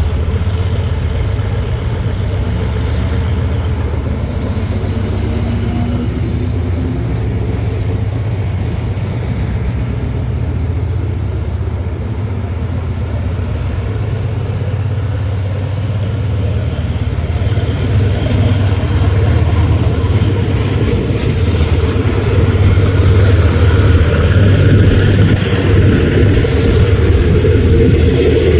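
Diesel-electric locomotive engine running with a steady deep rumble, growing louder from a little past halfway through.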